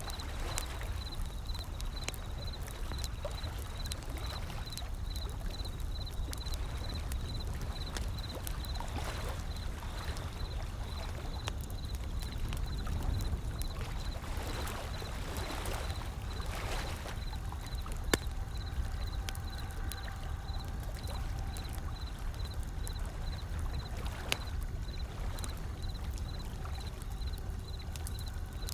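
Wood fire crackling with scattered sharp pops over the steady low rush of waves rolling in. The loudest pop comes a little past halfway.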